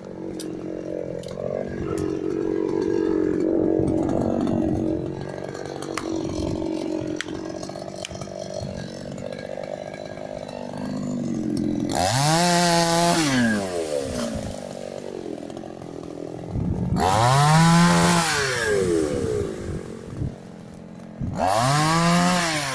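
Chainsaw cutting casuarina wood. The engine runs steadily at first, then is revved up three times, each time rising in pitch and then falling back.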